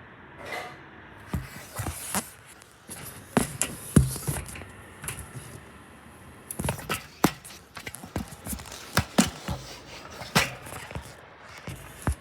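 A series of irregular knocks and clatters, some sharp and loud, spaced unevenly over a low steady background hum.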